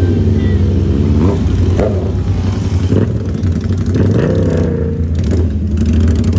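Motor vehicle engines running, with a steady low drone and revs rising and falling a few times.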